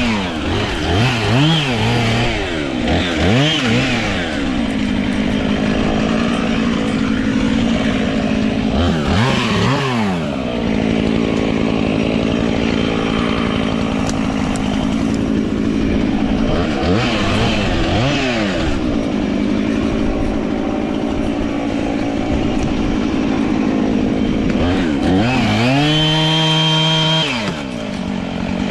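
Gas chainsaw repeatedly revved up and held at high speed for several seconds at a time, dropping back toward idle between runs, as when bucking up a fallen pine tree. Near the end it idles briefly before revving again.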